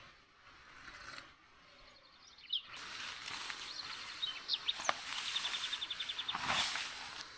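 Birds chirping over outdoor background hiss. The hiss grows suddenly louder about three seconds in; after that come short high chirps and a quick, even trill. Near the end there is a brief rustling scrape.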